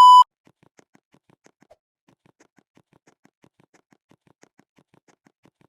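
A loud, steady electronic beep tone that cuts off suddenly a quarter-second in. After it come only faint, rapid ticks, about five a second.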